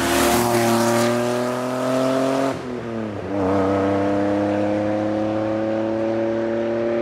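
Alfa Romeo 164's 3.0-litre Busso V6 passing and pulling away under acceleration, revs climbing. The revs drop briefly at an upshift about two and a half seconds in, then climb steadily again in the next gear.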